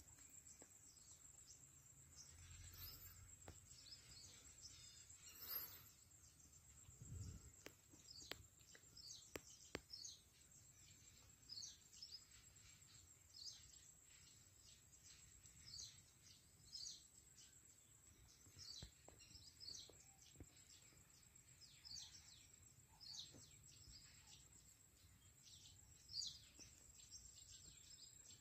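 Faint bird calls: short, falling chirps repeated about once a second, over a steady high-pitched whine.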